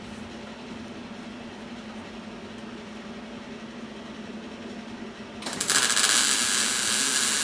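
Wire-feed welder laying a spot weld on thin truck-body sheet metal: a loud, dense, crackling hiss starts about five and a half seconds in and lasts a couple of seconds. A steady low hum runs underneath throughout.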